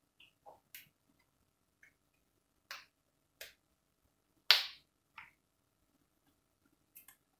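Fresh green beans being snapped by hand: about ten short, crisp snaps at irregular intervals as the ends are broken off and the pods broken into small pieces, the loudest a little past halfway.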